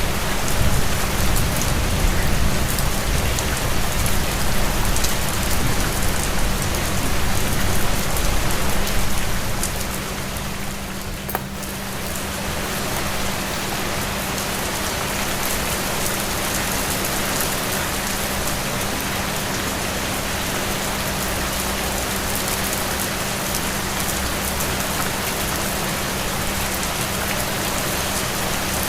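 Steady rain falling on a surface, an even hiss across the whole range. It is heavier and deeper for about the first ten seconds, dips briefly, then holds steady. A steady low hum sits underneath.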